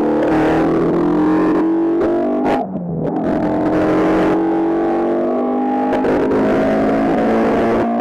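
Race car engine under hard acceleration, its pitch climbing steadily. About two and a half seconds in it drops briefly for an upshift, then climbs again.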